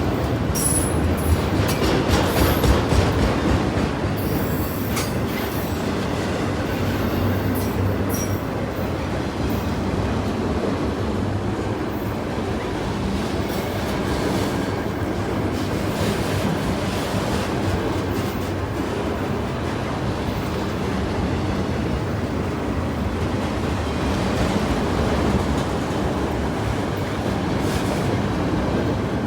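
A train rolling past with a steady rumble of wheels on rail. Short, high-pitched wheel squeals come and go during the first eight seconds or so.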